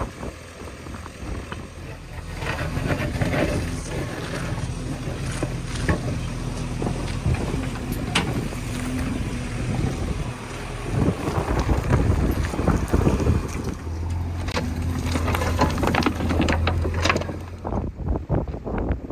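JCB 3DX backhoe loader's diesel engine running under working load, pulling harder for a few seconds past the middle, with scattered knocks and clatter from the working machine. There is wind noise on the microphone.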